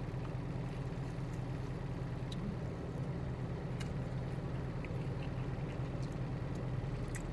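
Truck engine idling, a steady low hum heard inside the cab, with a few faint clicks.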